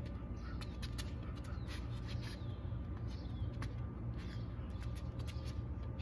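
Birds chirping: short falling calls about once a second, over a steady low rumble. Brief sharp clicks and scuffs come through, fitting sneakers on asphalt during shadow-boxing footwork.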